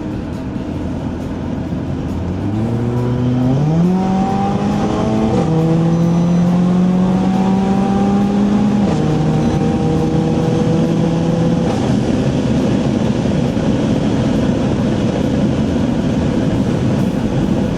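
Mercedes-AMG A45's turbocharged 2.0-litre four-cylinder with a Milltek exhaust, heard from inside the cabin, pulling hard with a rising engine note, the pitch dropping at upshifts about five and nine seconds in. After about twelve seconds the engine note fades under steady road and tyre noise.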